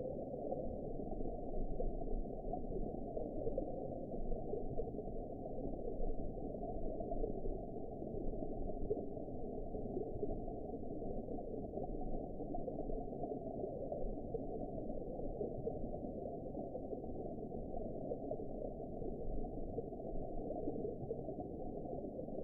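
Underwater ambience: a steady, deep, muffled wash of water noise with no high sounds at all, flickering slightly in loudness.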